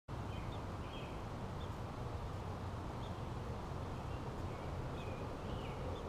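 Faint, short bird chirps repeated every half second to second, over a steady low outdoor rumble.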